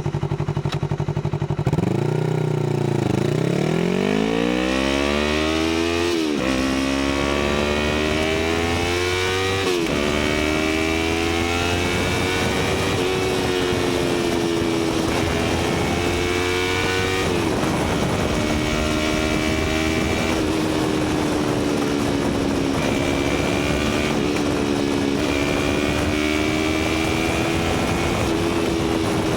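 Yamaha YZF-R3's 321 cc parallel-twin engine through an Akrapovic titanium slip-on exhaust, pulling away from idle and revving up through the gears. Each upshift drops the pitch, at about six and ten seconds in. After that it holds a fairly steady pitch with small rises and falls, and there is another shift about two-thirds of the way through.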